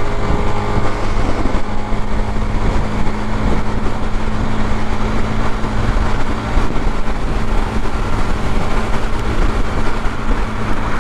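Suzuki GZ250's single-cylinder engine running steadily at freeway cruising speed, under a steady rush of wind and road noise.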